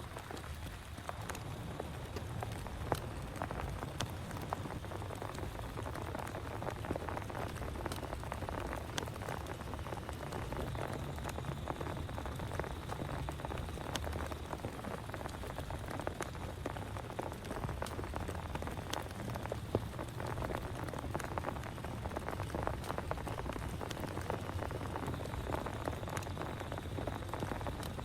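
Steady heavy rain, with many sharp taps of individual drops striking a nearby surface.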